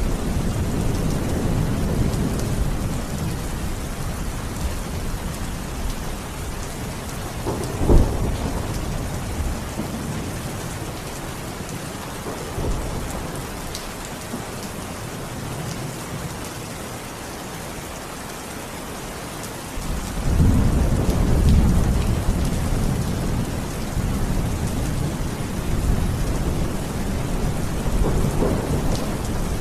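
Steady rain falling, with thunder: a sharp crack about eight seconds in and a long low rumble rising about two-thirds of the way through.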